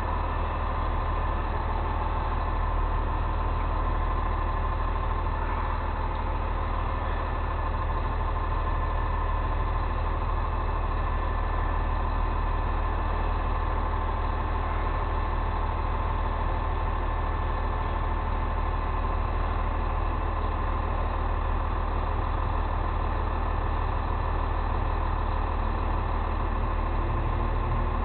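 Steady drone of a heavy truck engine running evenly, with no change in speed.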